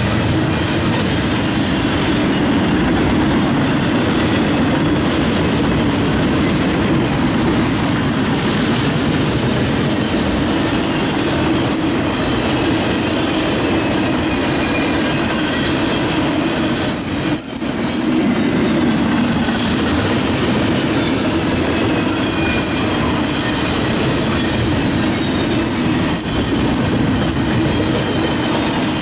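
A train passing close by: a loud, steady rumble of wheels running on the rails, with a momentary drop about two-thirds of the way through.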